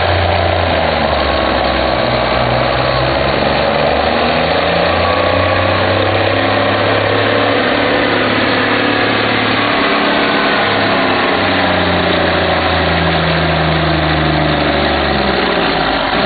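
Autocar semi truck's Cummins NTC 400 Big Cam diesel running hard. Its steady note dips for a moment about ten seconds in, picks up again, then falls away near the end.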